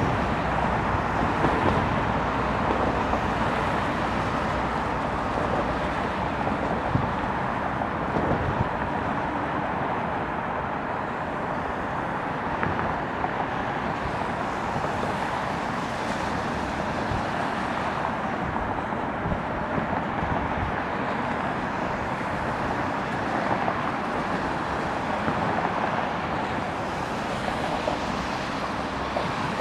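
Steady outdoor airport ambience: a continuous wash of road traffic and wind noise, with no distinct aircraft pass standing out.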